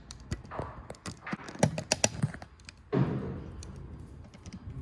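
Parts and tools being handled at a workbench: a quick run of clicks and knocks, then a heavier thump about three seconds in.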